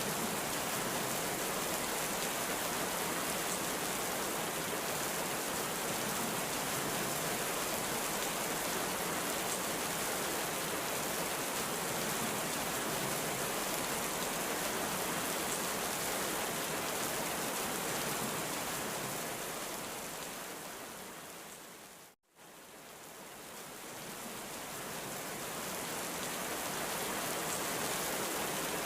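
Heavy rain falling in a steady, even hiss. About three-quarters of the way through it fades out to a moment of silence, then fades back in.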